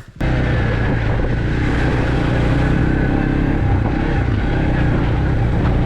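An off-road vehicle's engine running steadily under way, loud and close, starting and stopping abruptly at cuts.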